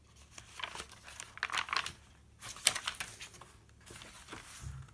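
Paper pages of a handmade junk journal being handled and turned: dry rustling and crinkling in several irregular bursts, the loudest about two and a half seconds in.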